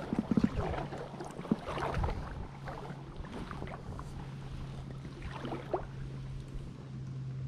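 Kayak paddle strokes splashing in the first two seconds, then quieter water sounds over a steady low hum, with a short rising chirp about two-thirds of the way in.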